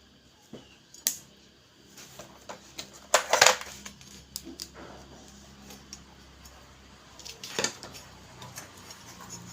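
Small clicks and light metallic clatter from hands working on a gas stove's ignition parts as the ignition wire is pulled off. There is a louder rattling clatter about three seconds in and another sharp one past seven seconds.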